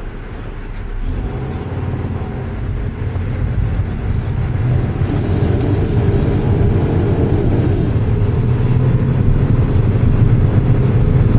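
Inside the cabin of a 2006 Subaru WRX under way: its turbocharged flat-four engine and the road noise run steadily, growing gradually louder.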